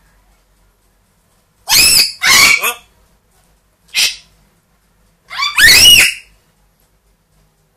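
Pet parrot giving loud, shrill calls: two in quick succession, a short one about two seconds later, then a longer one, each sweeping up in pitch.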